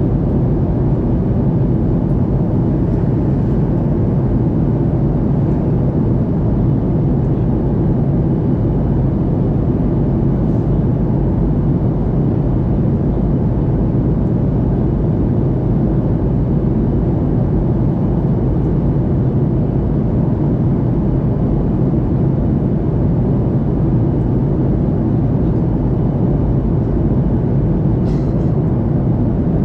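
Aircraft cabin noise in flight: a steady, even rumble and rush of engines and airflow, heaviest in the low range and unchanging throughout.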